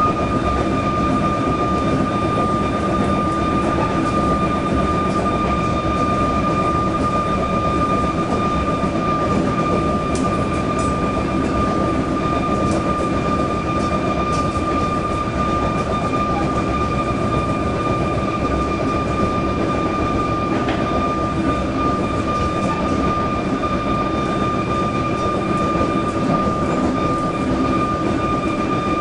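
Inside a suburban electric train running between stations: a steady rumble of wheels on track, with a constant high whine over it.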